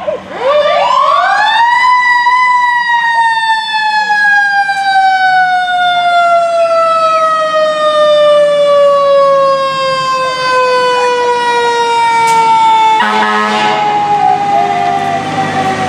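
Fire truck siren giving short whoops, then winding up to a high pitch and slowly winding down over many seconds. Near the end a noisier rumble joins it.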